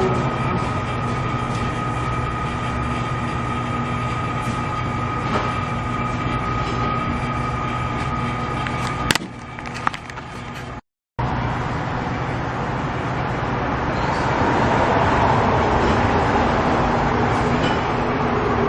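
Machinery running steadily, with a constant hum and a high whine, until a click about nine seconds in. After a short break it is followed by a louder, rushing running sound.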